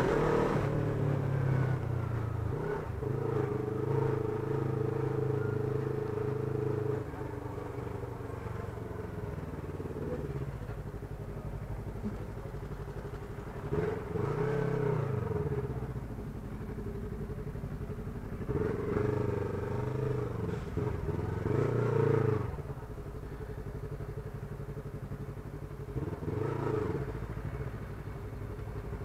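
Yamaha MT-03 motorcycle engine running at low speed in stop-and-go traffic, with several brief throttle blips in the second half, each rising and then falling in pitch.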